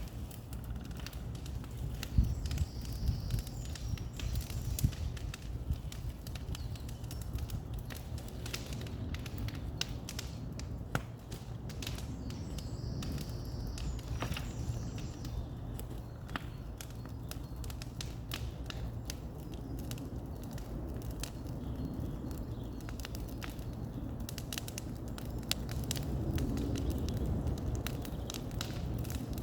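Bonfire crackling: scattered sharp pops and snaps at irregular intervals over a low, steady rumble.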